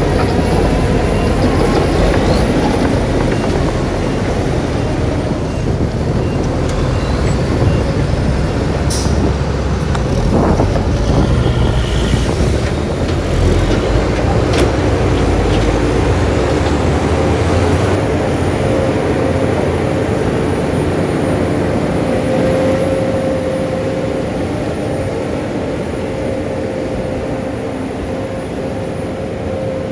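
Heavy diesel earthmoving machinery running under load, a dense engine rumble with a few brief metallic clanks. The deepest part of the rumble eases about halfway through.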